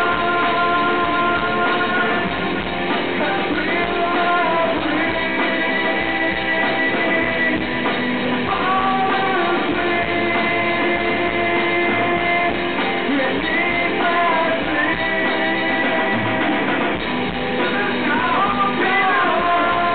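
Live rock band playing: electric guitars, bass and drums, with a sung melody of long held notes gliding between pitches.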